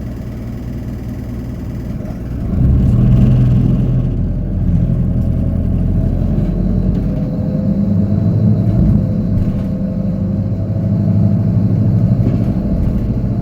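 Hino Poncho small bus's diesel engine, heard from inside the cabin: idling, then about two and a half seconds in it revs up as the bus pulls away and runs under load, with a faint steady whine over the engine.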